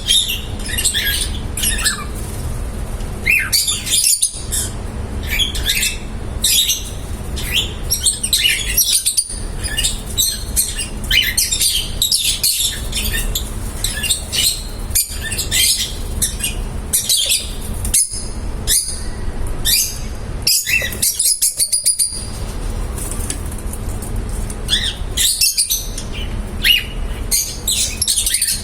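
A flock of pet lovebirds chirping and squawking continuously in short, sharp high calls, with a quick rattling run of clicks about three-quarters of the way through. A steady low rumble runs underneath.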